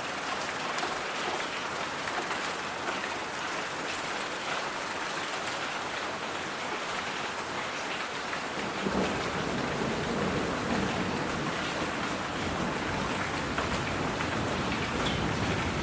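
Steady rain with fine pattering, joined about halfway through by a low rolling rumble of thunder.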